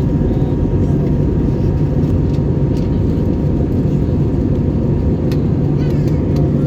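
Steady low rumble inside the cabin of an Airbus A321neo airliner: engine and airflow noise at an even level, with a faint steady tone above it.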